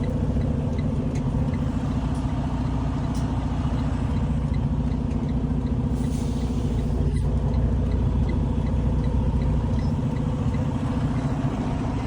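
Truck engine running steadily at low speed while the truck is pulled forward a little to straighten up for backing into the dock, with a faint, quick regular ticking over the hum.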